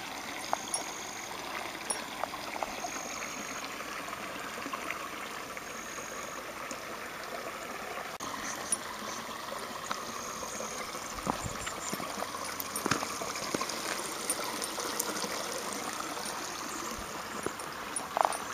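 Shallow creek water trickling steadily over granite rock in small rivulets, with a few faint clicks scattered through it.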